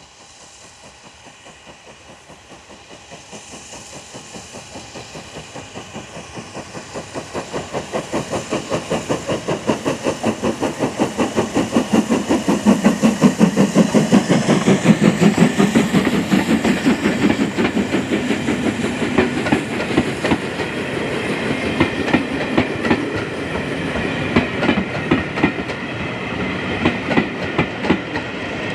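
BR Standard Class 4 2-6-4 tank locomotive 80078 working a train past, its steam exhaust beating about twice a second and growing louder until about halfway through. Its coaches then roll by, wheels clicking over the rail joints.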